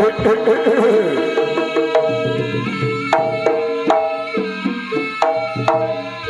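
Javanese jaranan accompaniment played loud through a sound system: hand-drum strokes with struck, ringing metal tones sounding in an uneven rhythm, and a wavering melodic line in the first second or so.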